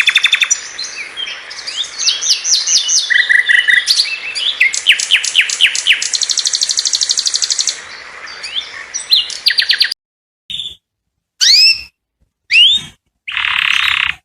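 Male canary singing a fast, loud song of rapid trills and repeated rolling notes. About ten seconds in the song cuts off suddenly, and a few separate upward-sweeping calls follow.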